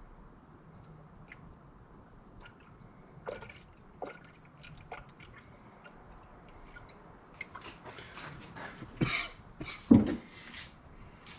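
Coolant dripping in scattered single drops, then a busier run of small knocks and clatter with one sharp thump near the end.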